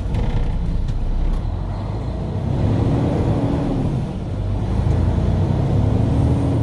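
Semi-truck diesel engine pulling away under load, its pitch rising and then dropping twice.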